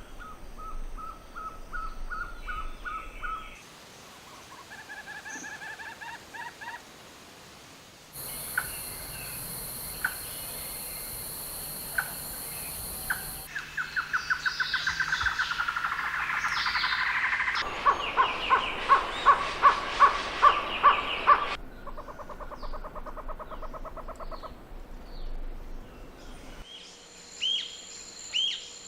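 Calls and songs of several different wild birds, heard as short clips joined one after another. Each clip has its own series of repeated notes or rapid trills.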